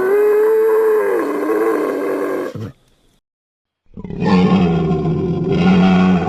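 Two made-up glyptodon creature calls, roar-like, with a second's silence between them. The first wavers up and down in pitch; the second is lower and rough, and holds steady.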